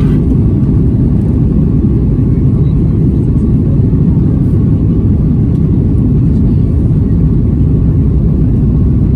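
Boeing 737 MAX 8's CFM LEAP-1B jet engines during takeoff: a loud, steady low rumble.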